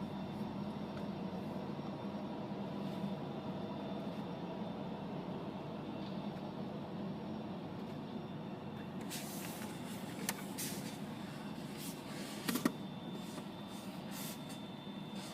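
A vehicle engine running steadily, a low rumble with a constant hum and a faint high whine. From about nine seconds in, a string of sharp clicks and knocks, the loudest near the thirteenth second.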